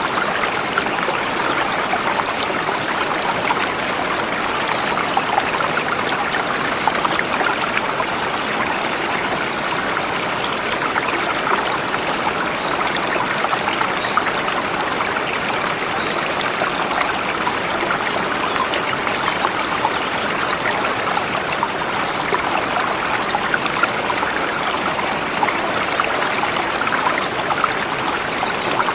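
Forest river flowing over rocks: a steady rushing of water with fine splashing and babbling that never lets up.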